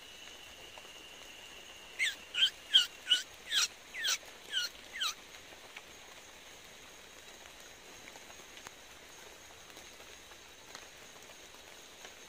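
Steady hiss of light rain in the forest, broken about two seconds in by a quick run of about nine whistled notes, each sliding downward, lasting about three seconds.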